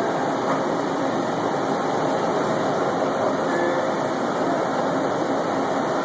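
Stratasys Dimension FDM 3D printer running mid-print: a steady mechanical whir with no pauses, as the print head lays down ABS layers.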